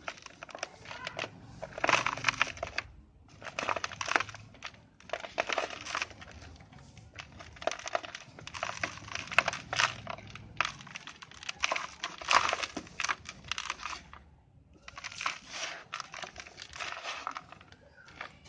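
Dried brown dirt shapes crunching and crumbling into powder, a dense crackle that comes in about six bursts with short pauses between them.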